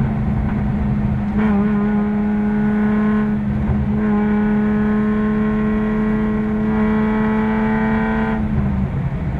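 Car engine heard from inside the cabin, running under load at a steady, fairly high speed with one held tone. The tone falters briefly a little over three seconds in and drops away near the end as the throttle comes off.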